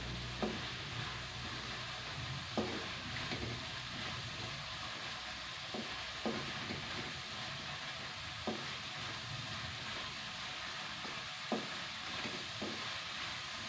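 Blended chilli, shallot and garlic spice paste sizzling in oil in a wok while being stirred with a spatula, sautéed until fragrant. The spatula clicks against the pan about seven times.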